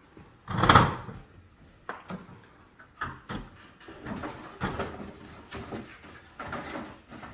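Knocking and scraping of an oven vent being handled to free a trapped bird. A loud bang comes just under a second in, followed by a run of smaller knocks and rustling scrapes.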